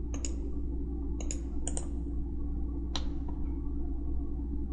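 Computer mouse clicking: several sharp clicks, mostly in quick pairs, over a steady low electrical hum.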